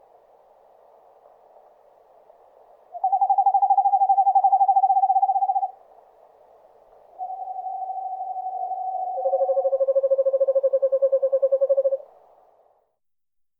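Eastern screech owl giving its monotone trill: three long runs of rapid, evenly pulsed whistled notes, each held at one pitch. The third, about nine seconds in, is lower than the first two.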